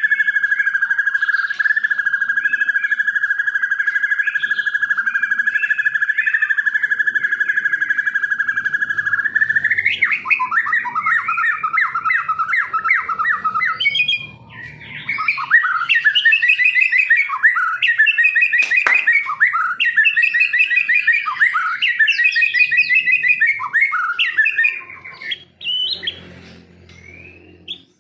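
Songbird singing. A long, steady, fast-pulsing trill is held for about nine seconds, then the song breaks into rapid, varied warbling and chattering phrases. It fades out near the end.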